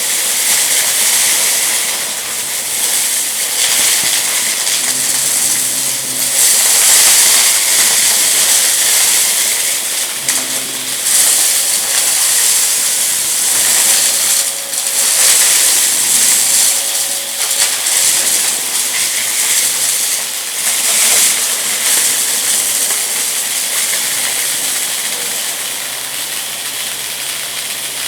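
Vacuum cleaner running on a rug and sucking up crunchy debris: a loud, steady rush of air that swells and dips every few seconds as the head moves over the mess.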